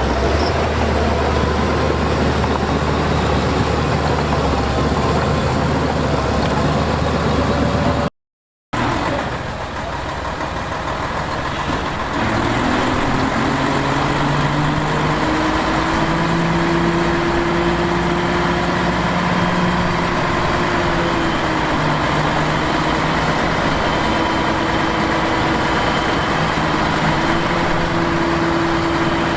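Heavy diesel earth-moving machinery running steadily. The sound cuts out briefly about eight seconds in, then an engine revs up and holds under load, its pitch wavering a little.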